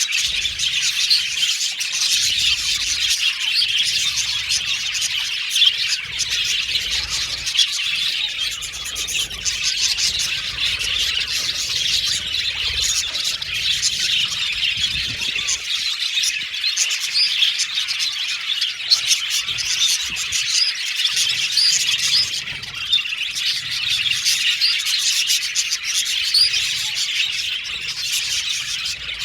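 A flock of budgerigars chirping and chattering continuously, many high warbling calls overlapping, with the odd squawk.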